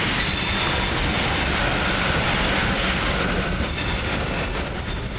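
Long freight train of oil tank cars rolling past, a steady rumble of wheels on rail. A thin, high wheel squeal runs over it, strongest from about halfway through.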